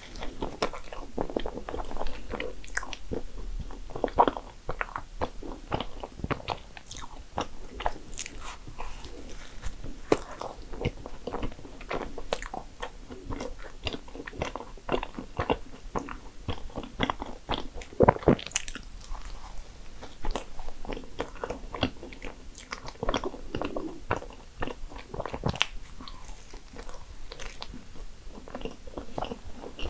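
Close-up chewing and biting of a cream-filled maritozzo bun: a steady run of short mouth clicks and smacks, with soft crunches of the bread.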